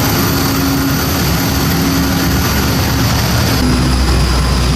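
A steadily running engine with a constant hum, its sound shifting slightly about three and a half seconds in.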